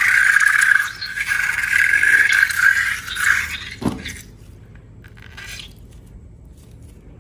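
A squeaky scraping sound in a few long strokes, with short breaks about one and two seconds in. It stops about three and a half seconds in, and a quick falling sweep follows just before four seconds.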